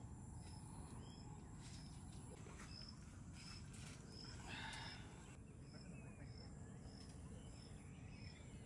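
Faint outdoor ambience of birds calling, one of them repeating a short high chirp about twice a second, with a brief louder call near the middle.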